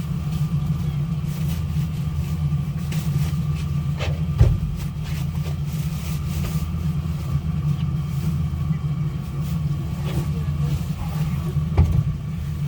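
A steady, low engine rumble, with a couple of brief knocks, one about four seconds in and one near the end.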